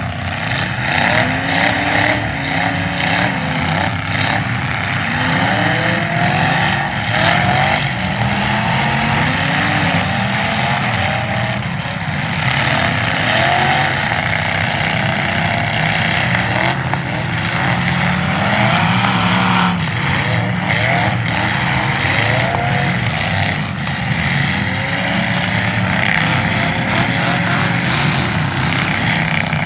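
Several demolition derby car engines running and revving at once, their pitches rising and falling over and over in overlapping waves.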